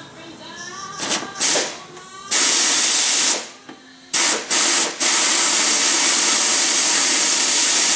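Pneumatic air tool run in bursts, hissing with exhaust air as it spins a bolt loose: a short run about two seconds in, two quick blips, then one long steady run of several seconds. A few knocks and brief whines come just before it.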